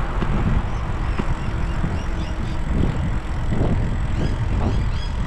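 Wind rumbling and buffeting on the microphone of a moving bicycle, with road noise underneath and short high chirps scattered through it.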